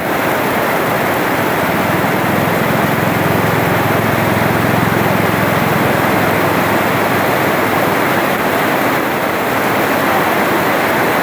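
Heavy tropical downpour: dense, steady rain.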